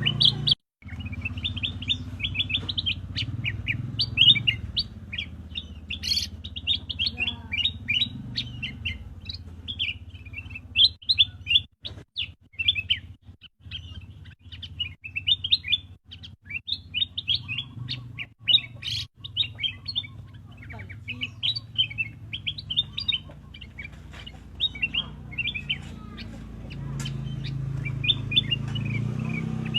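Black-crested bulbul chirping in a fast, unbroken stream of short, sharp high chirps over a low steady hum, the sound cutting out for a moment a few times in the middle.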